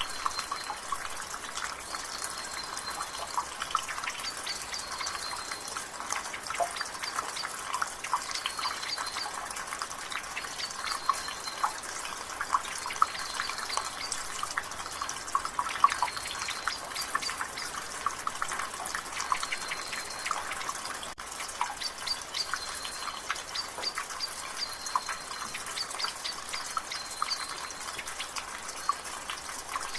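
Water dripping from a rain gutter: rapid, irregular drips over a steady hiss of rain. A bird chirps repeatedly in the background.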